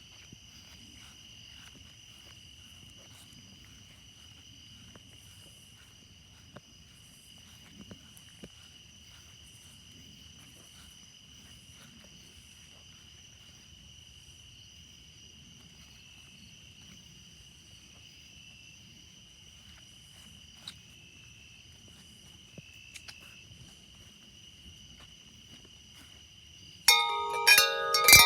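Night insects singing in a steady, high, continuous chorus over a faint low rumble. About a second before the end, a wind chime suddenly rings out loudly with many overlapping tones.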